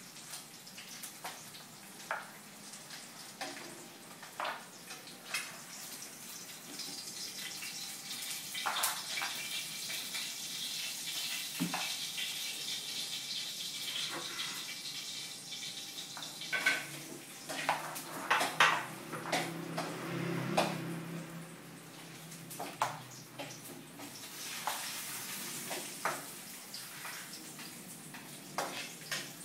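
Pit bull puppy playing with a mop: irregular knocks, clatter and scuffing of the mop and the puppy over a steady hiss, with a low rumbling stretch about two-thirds of the way through.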